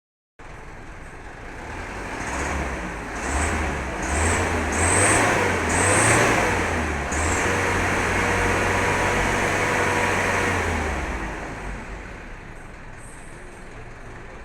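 Truck engine revved in several surges, then held at high revs for a few seconds before dropping back to a lower, steady running speed.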